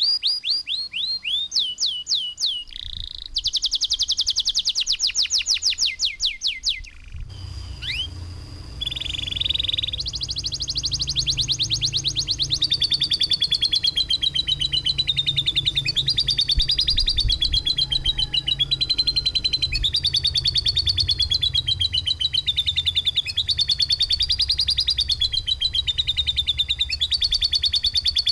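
Songbird recordings for bird training: first fast series of sharp downward-sweeping chirps and buzzy trills. About seven seconds in, a cut leads to a long rapid trill of repeated notes that wavers up and down in pitch, over a low steady hum.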